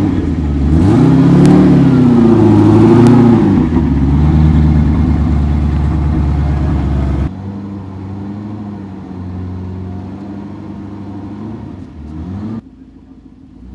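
Zenvo ST1's V8 engine revved twice, each rev rising and falling over about a second, then idling steadily. After a cut it idles more quietly, with a brief rev near the end.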